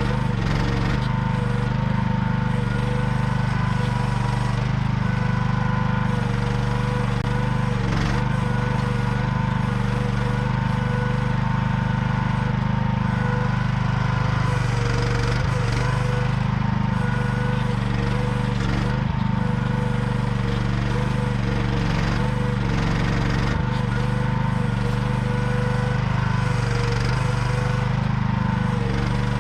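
AGT QH12R mini excavator's small engine running steadily under digging, with steady higher tones over it and a few faint knocks.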